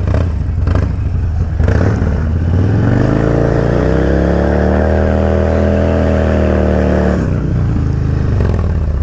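Motorcycle engine revving up and holding at high revs for about four seconds, then dropping off suddenly, as the rider holds the front brake and slips the clutch for a rolling burnout.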